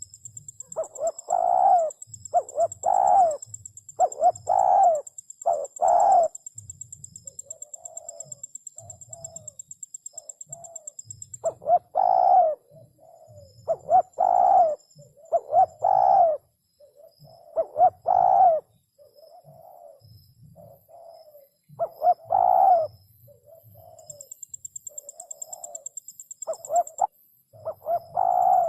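Spotted dove (cu gáy) cooing in repeated phrases, each a run of several deep coos, with short pauses between phrases. A high-pitched, fast-pulsing trill runs behind it, stops about twelve seconds in, and comes back near the end.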